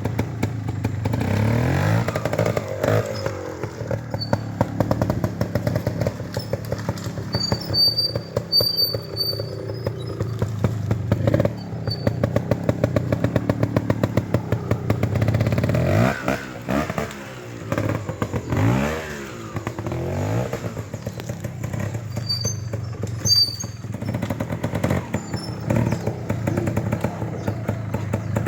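A trials motorcycle engine running at low revs with short throttle blips as it picks through an obstacle section. It gives two sharp revs up and back down in the middle.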